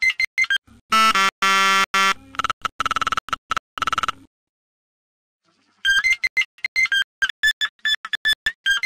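Synthesized cartoon soundtrack of fast, stuttering electronic beeps. A buzzy sustained tone sounds about a second in, the sound drops out for about a second and a half midway, and the rapid beeping resumes.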